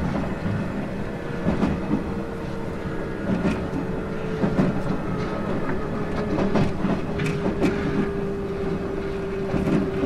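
JR East 719 series electric train running, its wheels clicking over rail joints, with a steady drive whine that sinks slightly in pitch.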